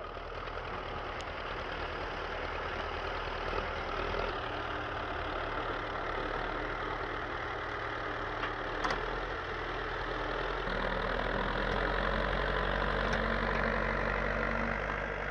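Tractor's diesel engine running steadily, its note rising and growing a little louder about two-thirds of the way through.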